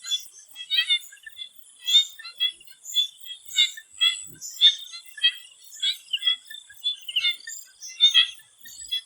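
Swamp frogs calling in a chorus: short, rapid-pulsed calls, one or two a second and overlapping unevenly. Beneath them runs a steady, thin, high-pitched drone.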